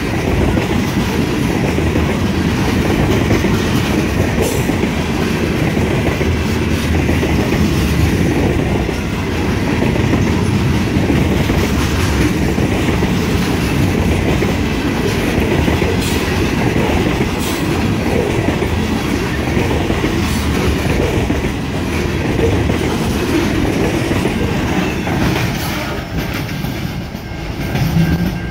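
Freight train of covered hopper grain cars rolling past: a steady rumble of steel wheels on rail, with occasional clicks. It eases a little near the end as the last car goes by.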